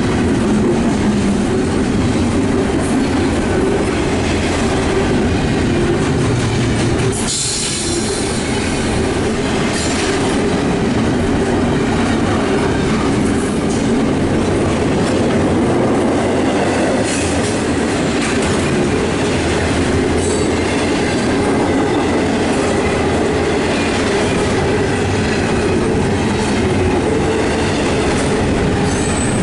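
Double-stack intermodal freight cars rolling past at close range: a steady, loud rumble with wheels clattering over rail joints.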